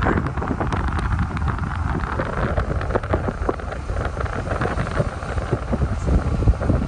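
Car driving along a road, a steady low rumble of road and engine noise with wind buffeting and crackling on the microphone.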